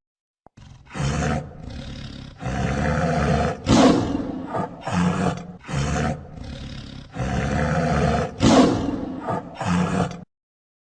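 Tiger roaring and growling in a string of throaty roars that stops about ten seconds in.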